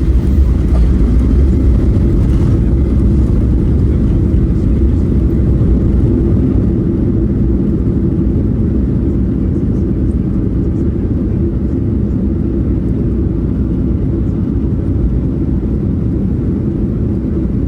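Cabin noise of a Boeing 737-800: a loud, steady low rumble of engines and airframe, easing slightly about six seconds in.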